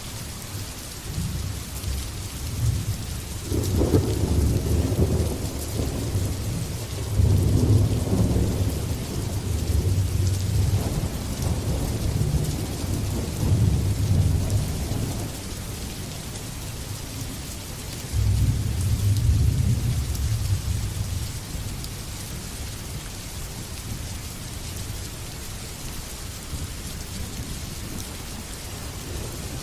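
Steady heavy rain falling, with thunder rumbling in long low swells: a long rolling peal from about three to fifteen seconds in, then another a few seconds later that fades out, leaving only the rain.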